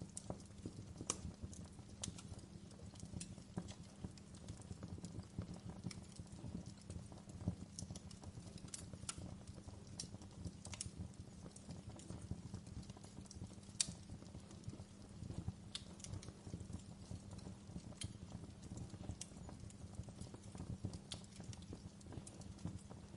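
Wood fire burning in a fireplace: a steady low rumble of flames with irregular crackles and pops, a few of them louder.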